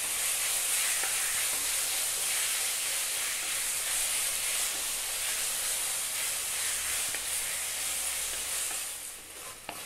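Thin beef strips sizzling in hot oil in a wok as they are sautéed and stirred with a wooden spatula: a steady frying hiss that drops away about nine seconds in.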